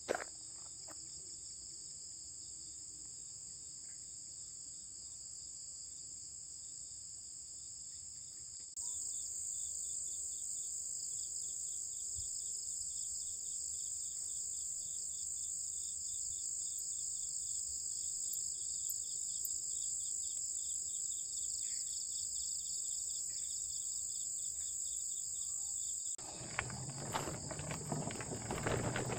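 Dusk insects chirring in a steady high-pitched drone. About a third of the way in, a rapid pulsing trill joins and makes the chorus louder. Near the end there are scuffing, rustling noises with a sharp knock.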